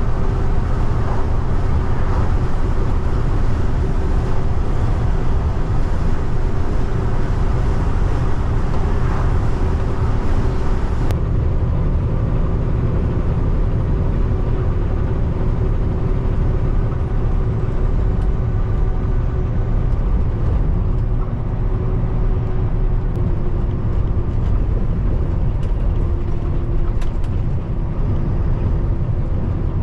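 Peterbilt 589 dump truck under way: a steady engine drone with road noise, and a single sharp click about eleven seconds in.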